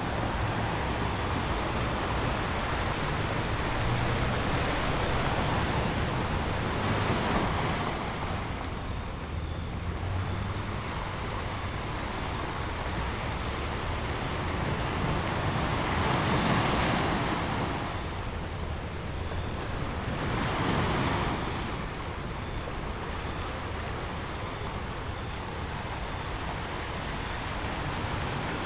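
Ocean surf: a steady wash of waves that swells louder several times as waves break and draw back.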